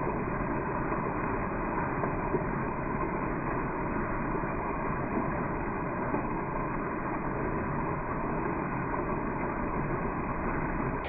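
Waterfall rushing in a steady, dull wash, the water sound slowed down along with the slow-motion footage.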